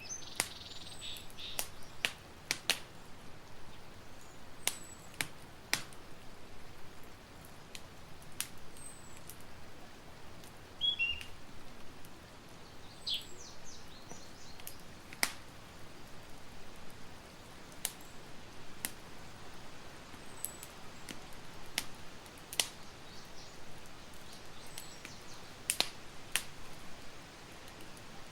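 Campfire crackling: irregular sharp pops and snaps over a soft steady hiss. A few faint, short, high chirps come through now and then.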